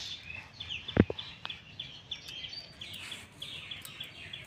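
A small bird chirping over and over, about three short chirps a second. About a second in there is a single knock, from a green brinjal being sliced against a boti blade.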